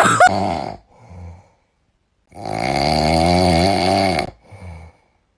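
A sleeping pet snoring loudly: one long snore of about two seconds, then a short, softer one.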